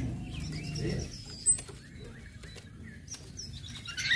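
Orange-headed thrush giving soft, scattered high chirps and short calls, with one sharper chirp about a second and a half in.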